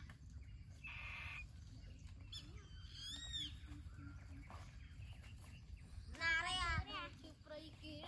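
Faint bird calls: a few high arched whistles about three seconds in, then a quick run of rising-and-falling notes about six seconds in, over a low rumble.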